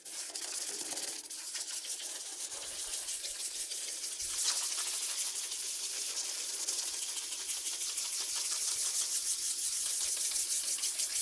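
Toothbrush scrubbing toothpaste in circles over a plastic taillight lens: a steady, rapid scratchy brushing that grows a little louder toward the end.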